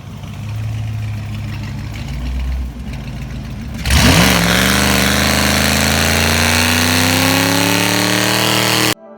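Car engine running low and steady, then about four seconds in it is suddenly revved hard, its pitch climbing steadily for about five seconds like a car accelerating under full throttle. It cuts off abruptly near the end.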